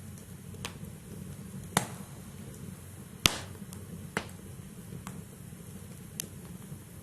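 Wood fire burning in a fireplace: a steady low rustle of flames with sharp crackles and pops from the burning logs at irregular intervals, the loudest pop a little after three seconds in.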